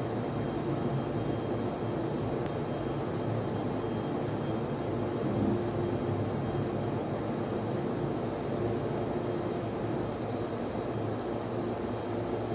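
Server room equipment running: a steady, unchanging hum and whir of machines, with a faint high whine above it and a single light tick about two and a half seconds in.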